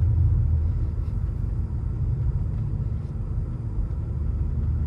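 BMW 335i's twin-turbo N54 straight-six pulling gently in second gear at low speed: a steady low rumble.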